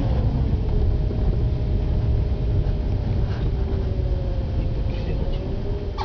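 Car driving, heard from inside the cabin: a steady low rumble of engine and tyres on the road, with a faint tone that drifts slightly in pitch. A short click near the end.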